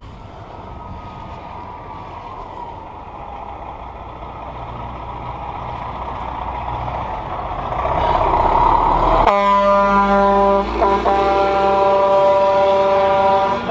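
Dump truck approaching from behind, its engine noise building steadily, then its horn blasting loudly about nine seconds in and held for several seconds, with one brief break.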